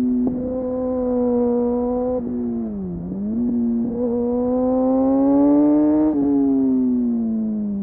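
Kawasaki Ninja sport bike with an Arrow exhaust, its dB-killer baffle removed, running under throttle. The engine note holds steady, dips briefly about three seconds in, climbs again, then falls away after about six seconds as the revs drop.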